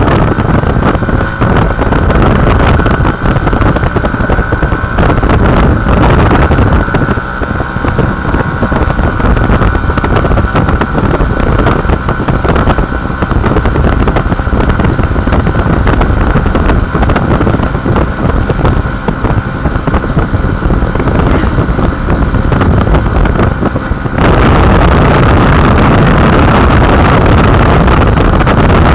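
Heavy wind buffeting the microphone while riding a running vehicle: a loud, rough rush with a faint steady whine underneath. Near the end it changes to a steadier, brighter hiss.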